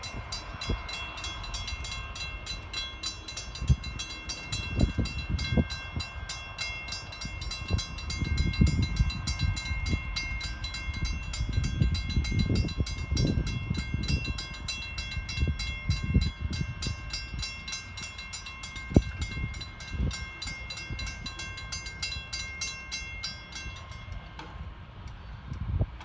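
Railroad crossing signal bell ringing in fast, even strokes during a test of the crossing warning system, stopping about two seconds before the end. Irregular low rumbling runs underneath.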